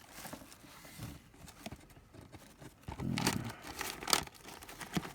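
Rummaging through a storage container of cable ties and small parts: plastic rustling and light clicks and clatter, growing louder about three seconds in.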